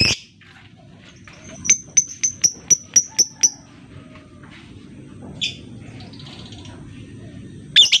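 Lovebird calling: a quick run of about eight sharp, high chirps over about two seconds, then a single call a couple of seconds later and a loud shriek near the end.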